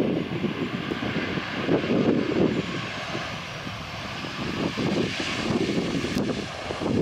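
Jet engines of a Boeing 737-800 on landing, a rumble with a faint high whine that slowly falls in pitch as the aircraft passes, over gusty low noise.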